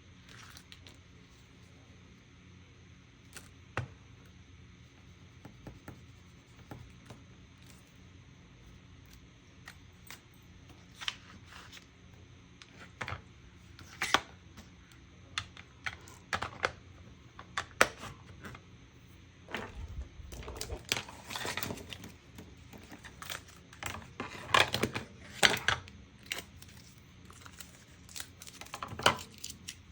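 Scattered clicks, taps and short scrapes of art supplies and paper being handled on a work table, sparse at first and busier from about halfway through.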